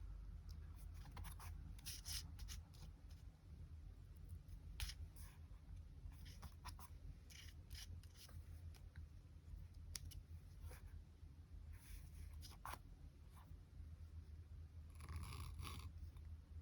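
Scissors snipping paper in short, irregular cuts, with a denser run of cutting and paper handling near the end.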